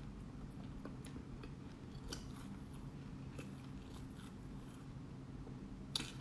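Close-up chewing and crunching of black sesame seeds: scattered small crisp crunches, with one sharper, louder crunch near the end.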